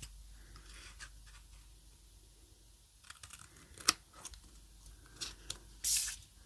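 Small scissors snipping: faint, irregular cuts and clicks, with one sharper snip about four seconds in.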